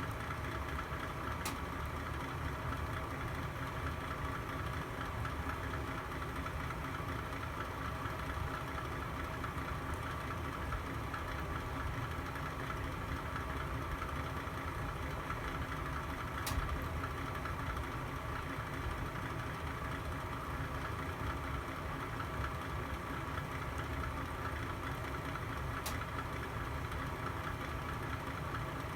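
Fire burning in a fireplace: a steady low rumble and hiss, broken by three sharp pops, about a second and a half in, about halfway through, and near the end.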